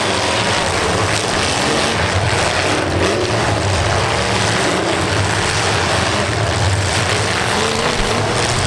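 Several demolition derby cars' engines running and revving together in a steady, loud din, with pitches rising and falling.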